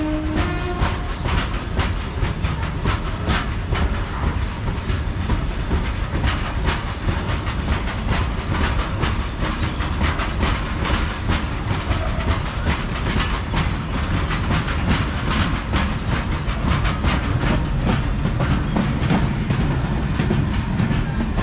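Freight train of BOXN open-top wagons passing slowly, with steady clickety-clack of the wheels over the rail joints over a low rumble. The brake van passes near the end.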